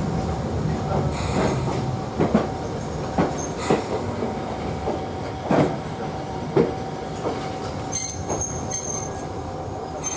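Hakone Tozan Railway electric train heard from inside the carriage as it slows to a stop at a station. The wheels knock over rail joints every second or so, more and more sparsely, under a steady rumble and a thin, steady squeal.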